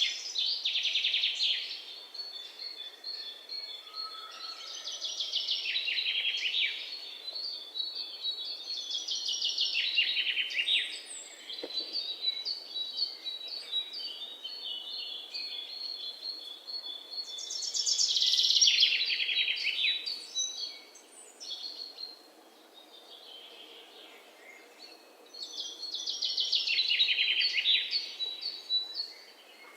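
A songbird singing a rapid trill of notes that falls in pitch, each phrase about two seconds long, repeated five times at intervals of several seconds, with fainter twittering of other birds between the phrases.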